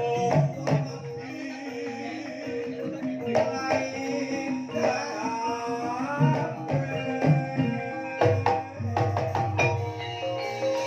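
Banyumasan gamelan ensemble playing a gending in the ebeg style: struck metallophones sounding held notes, punctuated by sharp drum strokes. A wavering melodic line rises and falls a little past the middle.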